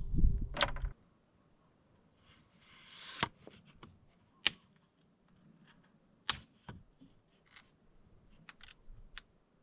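Plastic and metal parts of a grease gun being handled while a grease cartridge is loaded: scattered sharp clicks and a short rustle. A loud low rumble cuts off about a second in.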